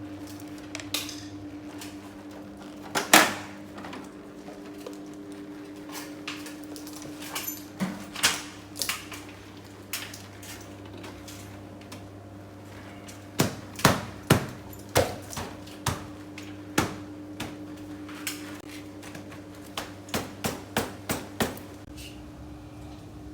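Sharp, irregular clicks and knocks of hand-tool work on air-conditioner equipment, with one loud knock about three seconds in and a quick run of taps near the end, over a steady machine hum.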